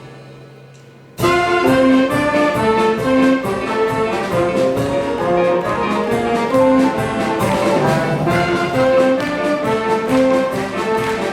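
Youth brass band playing a medley of cartoon tunes: after a short fading pause, the full band comes in sharply about a second in, with trumpets and trombones carrying the melody over a quick steady beat.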